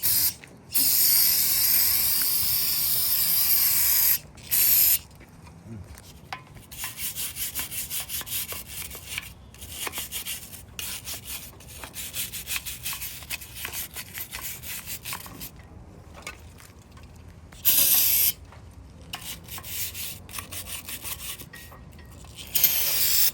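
Aerosol solvent cleaner, carburetor or brake cleaner, sprayed onto a 383 V8 engine block in hissing bursts: a long one of about four seconds at the start and short ones later. Between the bursts come quick scrubbing strokes on the block.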